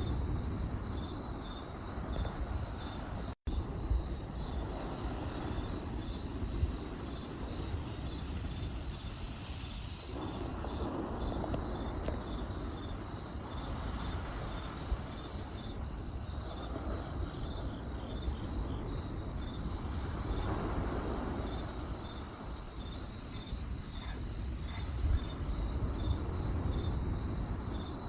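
Crickets chirping in a steady, rapidly pulsed high trill over the low rumble and occasional crackle of a campfire. The sound cuts out for an instant about three seconds in.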